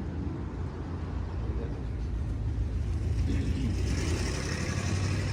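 Road traffic rumbling steadily, with a passing vehicle growing louder from about three seconds in.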